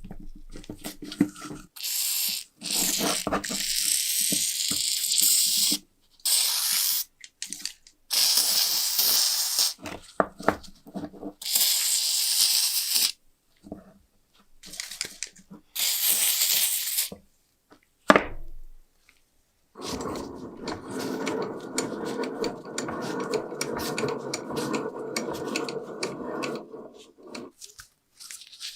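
Work on a metal lighter: a series of hissing, scraping strokes, each a second or two long, and a sharp click, then a steadier, lower sound running for about seven seconds near the end.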